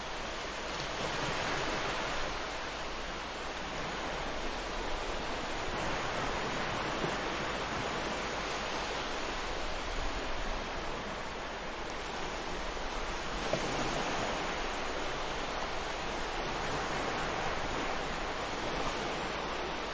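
Ocean waves breaking on a beach: a continuous wash of surf that swells and eases every few seconds, with some wind noise on the microphone.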